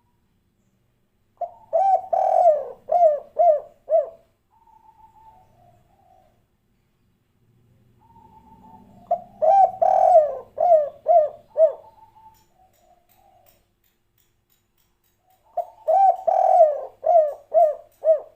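Spotted dove (tekukur) cooing: three song phrases, each a quick run of about six coos, with softer coos between the phrases.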